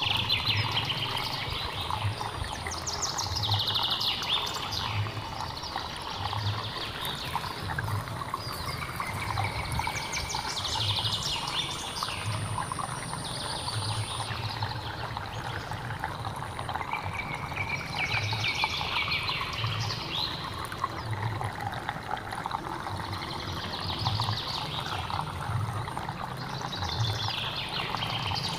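A hill stream running steadily, with birds singing short trilled phrases every few seconds over it. A low pulsing sounds about once a second, and a thin high steady tone holds for about ten seconds in the first half.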